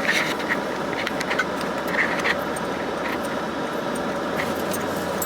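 Car driving, with a steady road and engine noise and several short, sharp sounds over it.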